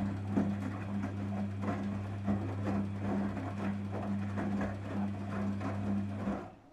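Daewoo DWD-FT1013 washing machine in its rinse cycle: the motor hums steadily as the drum turns, with water and laundry sloshing and knocking irregularly. The motor stops abruptly about six seconds in.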